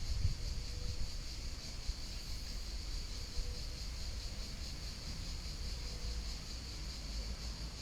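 Outdoor nature ambience: a steady, high, shimmering chorus of insects over a constant low rumble.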